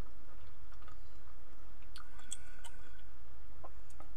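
A person chewing soft boiled vegetables with the mouth open, with small wet clicks and smacks. A brief cluster of clicks comes about two seconds in, over a steady low hum.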